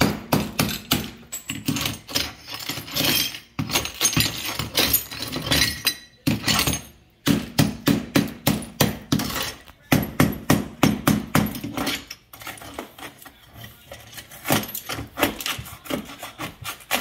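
Hammer striking a small masonry chisel to chip up a ceramic floor tile: runs of sharp taps, about two to three a second, with a scraping stretch early on and a short pause about six seconds in.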